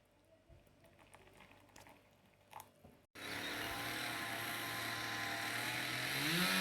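Faint small clicks and knocks, then an abrupt cut to a loud, steady motor running with a rushing noise. Its pitch steps up near the end.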